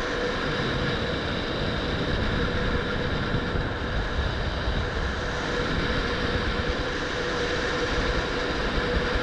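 A steady machine noise with a constant mid-pitched hum running underneath.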